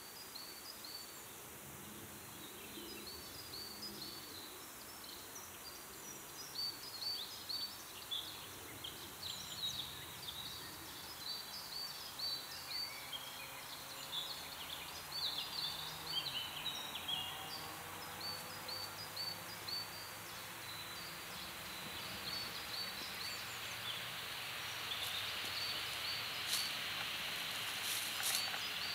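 Small birds chirping and singing in quick, repeated short phrases over a quiet outdoor background, with a faint steady high tone behind them. There are a few sharp clicks near the end.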